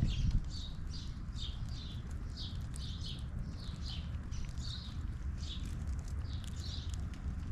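A small bird chirping over and over, short falling notes about two a second, over a steady low rumble.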